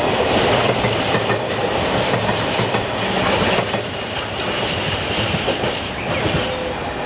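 Freight train's empty container flat wagons rolling past, their wheels clattering over the rail joints in a continuous clickety-clack. The rattle eases near the end as the last wagons pass.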